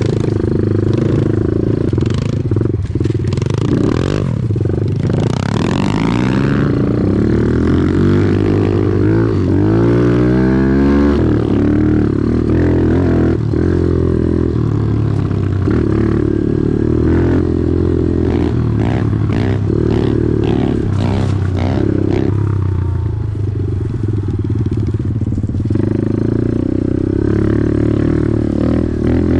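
Off-road vehicle engine running, its revs swinging up and down about a third of the way in, with scattered knocks and rattles.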